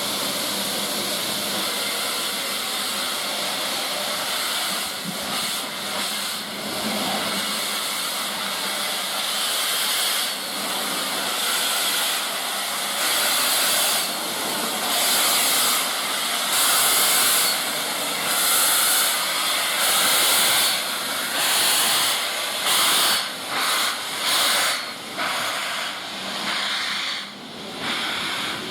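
Steam locomotive hissing steam, then setting off: from about halfway the hiss breaks into separate exhaust beats that come closer together as it gathers speed.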